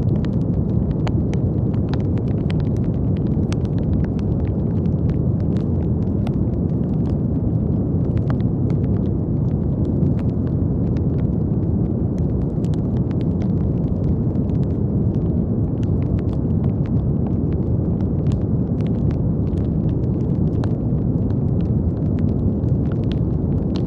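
Continuous brown noise, a deep, even rumble strongest in the low end, with faint scattered crackles over it.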